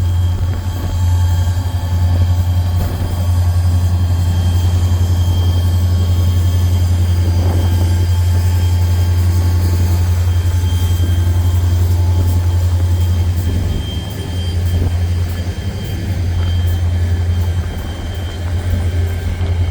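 A train running past with a steady, loud low rumble, easing briefly a couple of times near the end, and a faint high squeal in the middle.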